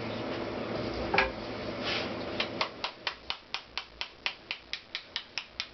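A single sharp click, then a steady, evenly spaced run of sharp clicks, about four a second, stopping just before the end.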